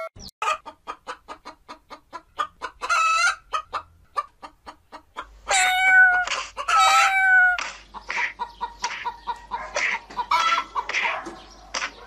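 Cartoon scuffle sound effects: a hen-like bird calling in short quick bursts, about four a second, with two long, loud squawks about midway.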